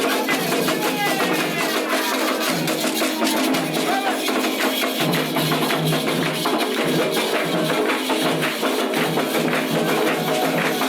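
Candomblé ceremonial music: dense, continuous hand percussion of drums and rattling or clicking instruments, with voices faintly in the mix.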